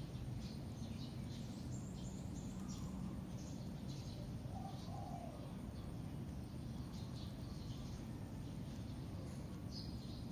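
Outdoor ambience: birds chirping, short high chirps every second or so, over a steady low rumble.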